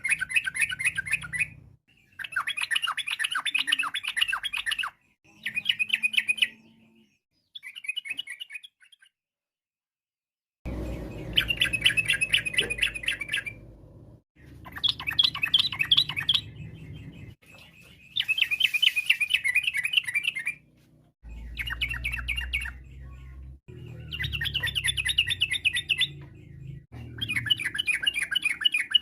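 Yellow-vented bulbul singing in repeated bursts of fast, bubbling chattering notes, each phrase lasting one to three seconds with short pauses between, and a longer pause about a third of the way through.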